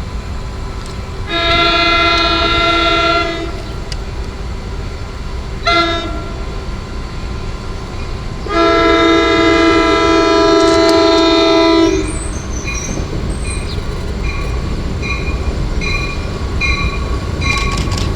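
A train's air horn sounds three blasts, long, short, long, over the low rumble of a train. After the last blast a grade-crossing bell rings at a steady rhythm.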